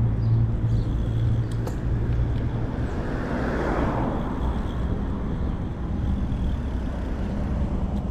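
Street traffic from a moving bicycle: a car engine's low steady drone fading out in the first second or so, then a vehicle passing with a swell that rises and falls about three to four seconds in, over a constant low road rumble.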